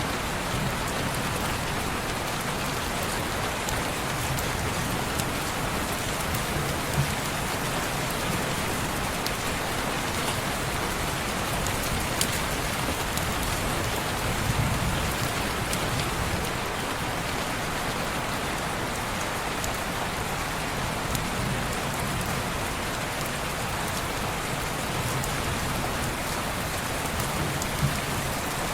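Steady rain falling on window glass, an even hiss with a few sharper ticks and soft low swells here and there.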